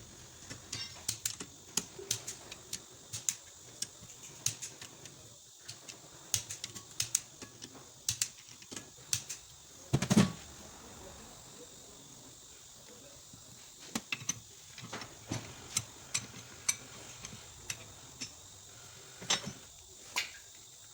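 Metal hand tools and engine parts clinking and clicking irregularly during engine assembly, with one louder clank about halfway through.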